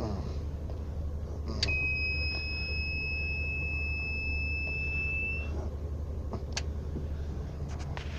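A single long electronic beep, a steady high tone lasting about four seconds, over the low steady hum of the van's idling engine.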